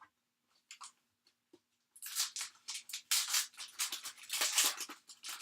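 Trading cards being handled: a few faint clicks, then from about two seconds in a dense crinkling rustle that runs on.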